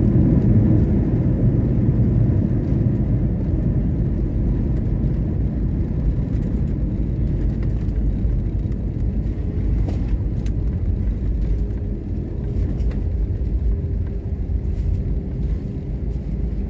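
Airliner's deep engine rumble during its landing, slowly fading away, with a faint steady hum joining about halfway through.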